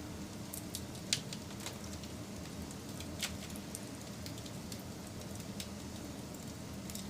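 Wood fire burning, with a steady low rumble under scattered sharp crackles and pops; two louder pops come about a second in and just past three seconds.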